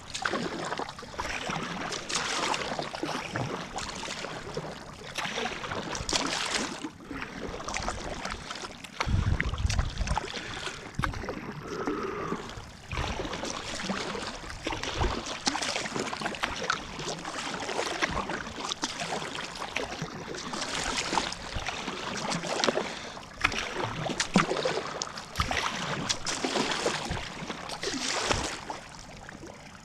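Kayak paddle strokes: water splashing and dripping off the blades in swells every second or two as the boat moves along, with a brief low rumble about nine seconds in.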